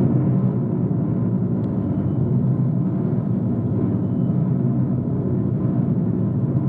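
A loud, low, steady droning in the sky, several deep tones sounding together without a break after starting abruptly just before.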